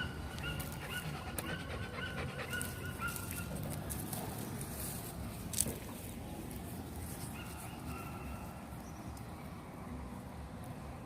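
A dog whining in short, high whimpers repeated in quick succession, in a run over the first three seconds and again briefly about seven seconds in. A single sharp click comes about halfway through.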